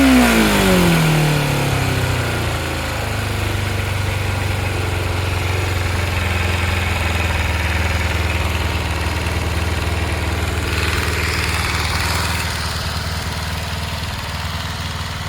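Kawasaki Eliminator 250SE's parallel-twin engine dropping back from a throttle blip in the first second or so, then idling steadily.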